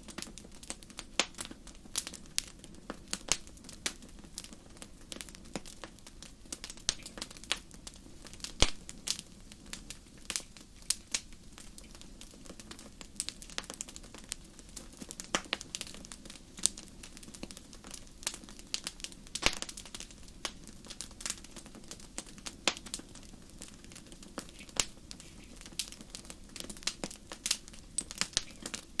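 Wood fire crackling in a fireplace: irregular sharp pops and snaps, several a second at times, over a soft steady hiss, with one louder pop about nine seconds in.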